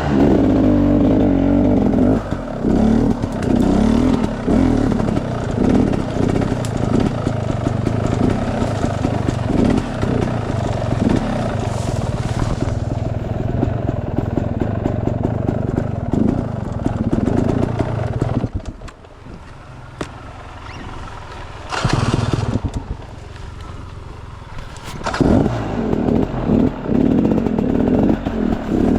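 Enduro dirt bike engine running and revving under varying throttle on an off-road trail. About two-thirds of the way through it drops to a quieter running for several seconds, then revs up hard again near the end.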